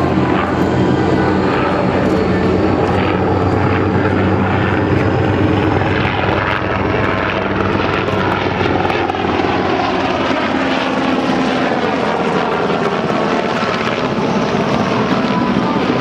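UH-60J helicopter flying by, its main rotor and turbine engines running with a steady low throb and a high turbine whine. The pitch of its tones falls slowly through the middle as it passes.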